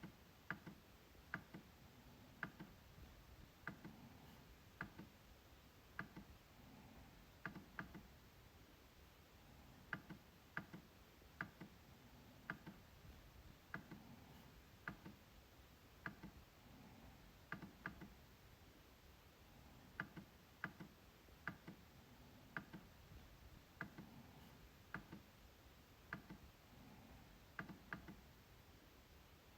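MacBook trackpad being clicked over and over: sharp, short clicks at an uneven pace of about one or two a second, some coming in quick pairs like double-clicks.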